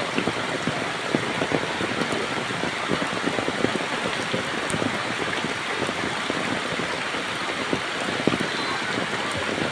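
Heavy, steady rain pouring down, a dense unbroken patter of drops striking surfaces.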